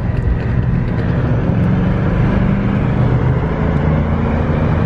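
Car engine and exhaust running with a steady low drone.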